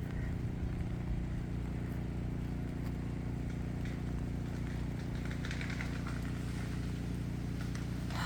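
Steady low hum of a running engine-driven generator, with a faint crackle about five seconds in.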